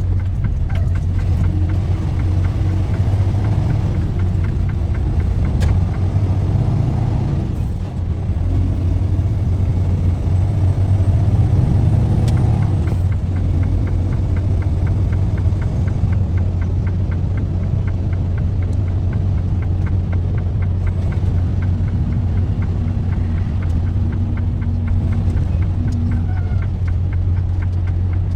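Steady low rumble of a truck under way, heard from inside the cab: engine drone and road noise.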